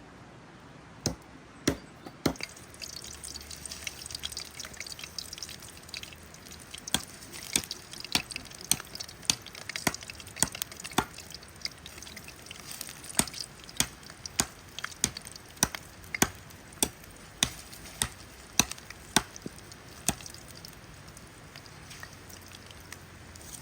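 Sharp, evenly paced knocks, about one every half-second or so, like a knife chopping on a wooden board, over a soft steady hiss.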